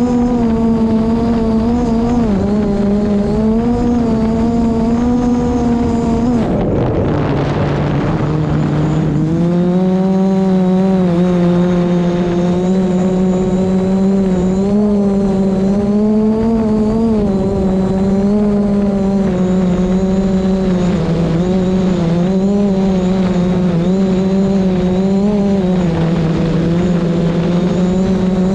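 DJI Mavic Pro drone's propellers whining steadily, the pitch wavering up and down as the motors work against strong wind. About six to nine seconds in, a rush of noise sweeps over it and the whine drops lower before steadying again.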